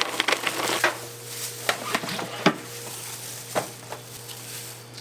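Clatter of hard objects being handled, with a quick run of knocks and scrapes in the first second, then single knocks about two and a half and three and a half seconds in, over a steady low hum.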